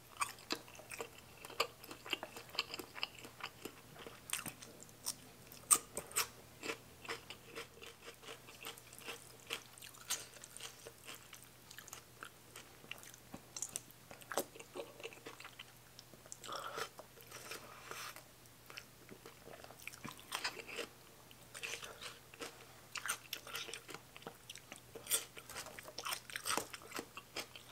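Mouth sounds of eating rice noodles in a spicy curry broth: wet chewing and slurping with some crunching, in many short, irregular smacks and clicks.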